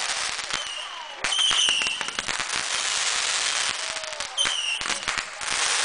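500 g consumer firework cake firing: a dense run of sharp pops and crackling from the bursting shots.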